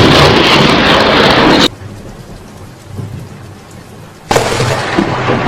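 Thunderstorm: heavy rain and thunder rumbling, dropping abruptly to much quieter rain about a second and a half in, then loud again near the end.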